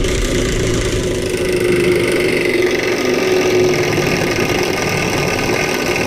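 Cordless impact wrench on a dying battery, its motor and hammer running steadily for about six seconds, then cutting off abruptly: the battery is nearly dead.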